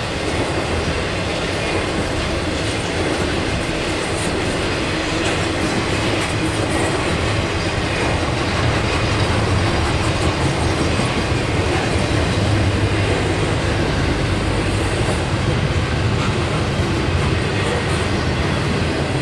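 Intermodal freight cars of a BNSF stack train rolling steadily past, carrying trailers and then double-stacked containers: continuous wheel-on-rail rumble and rattle.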